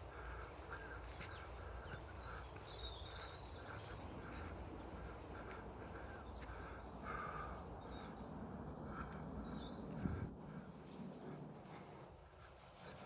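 Birds calling and singing outdoors: a run of short, evenly repeated calls with higher chirps and whistles over them, above a low, steady rumble. A single thump about ten seconds in.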